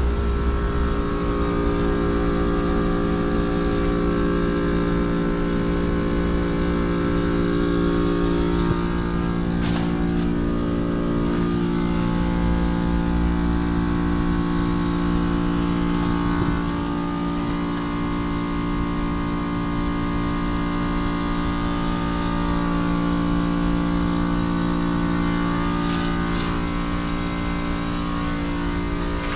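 Carrier heat pump's outdoor compressor running with a steady hum during its defrost cycle. Higher tones slowly rise and fall over the hum in the second half.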